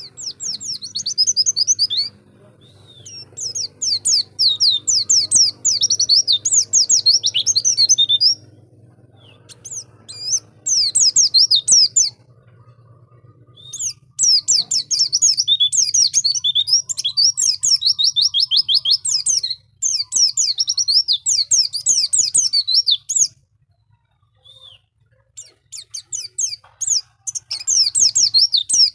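White-eye (pleci) singing: long, fast, high twittering phrases of several seconds each, broken by short pauses.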